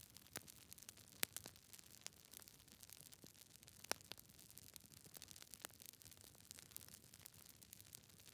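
Wood fire in a fireplace, with logs crackling: irregular sharp pops and snaps over a faint hiss. The loudest pops come about a second in and again near four seconds.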